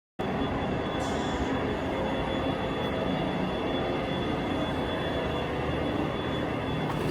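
Steady rumble and hiss of a moving vehicle, with a thin, steady, high whine over it; it starts abruptly just after the start.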